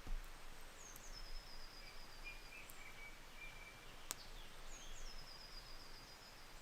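A songbird singing faintly, twice: each phrase slides down from a high note into a quick, even run of short notes. Quieter, lower notes come from another bird in between, and there is one sharp click about four seconds in.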